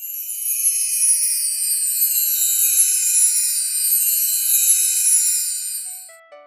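A high, shimmering, chime-like sparkle of sound with a few steady ringing tones, holding for about six seconds and then fading away near the end.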